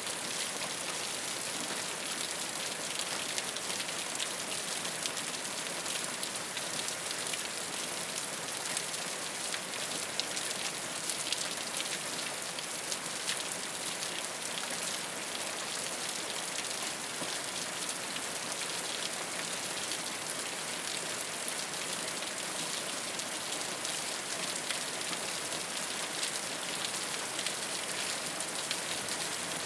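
Steady rain falling on a rooftop: a constant hiss of rain with many small drop ticks, even throughout.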